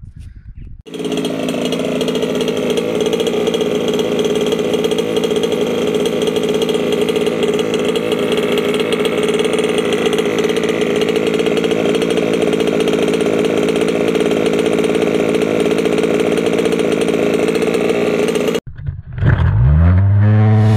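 Race-ported, roughly 30cc two-stroke engine of a 1/5-scale RC truck, a 29cc ESP engine with a 1mm stroker crank, running loud and steady with little change in pitch. It cuts off suddenly near the end, and rock music starts.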